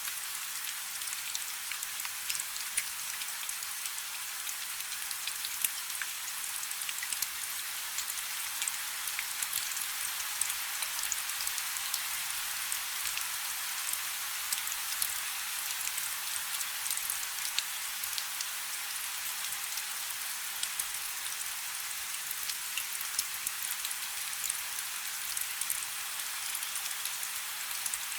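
Steady rain falling on a river's surface: an even hiss with many separate drops ticking through it, and no deep rumble.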